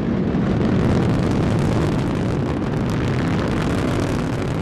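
Delta IV Heavy rocket's three RS-68A engines at full thrust during ascent: a loud, steady low rumble with crackling.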